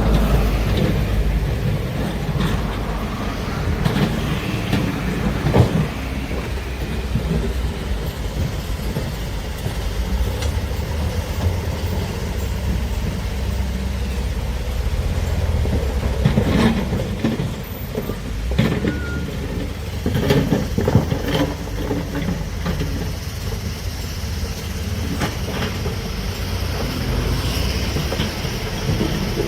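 Heavy diesel earthmoving machinery running with a steady low rumble, with scattered knocks and clanks of metal, several of them bunched together in the second half.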